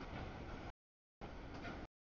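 Autorack cars of a CSX freight train rolling past, a broad rumble and clatter of wheels on rail. The sound comes in pieces under a second long and cuts out completely twice for about half a second, where the audio drops out.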